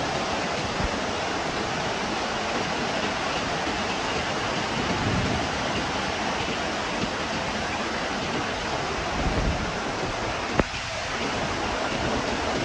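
Heavy rain and wind making a steady, dense hiss, with gusts rumbling on the microphone now and then. A single sharp click sounds about ten and a half seconds in.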